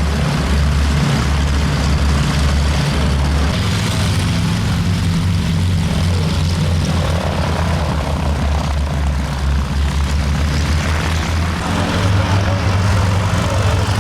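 Boeing Stearman biplane's radial engine running on the ground with its propeller turning, a steady low drone whose note shifts slightly a few times.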